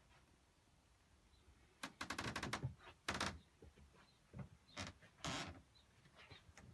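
Handling noises: a quick rattle of about eight clicks around two seconds in, then a few separate knocks and a short scrape.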